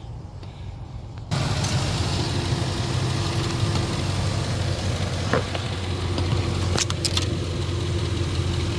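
Ford 5.4-litre V8 idling steadily. It becomes much louder abruptly about a second in, then holds an even, low idle.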